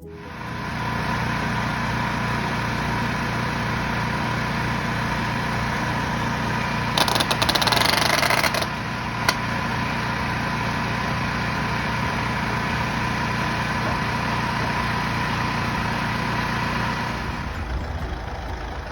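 An engine running steadily with a constant whine. About seven seconds in there is a loud hiss lasting under two seconds, then a single sharp click.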